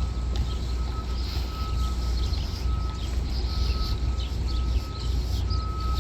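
Outdoor city ambience: a steady low rumble of traffic, with a thin high tone sounding in short pieces on and off, and faint high chirps.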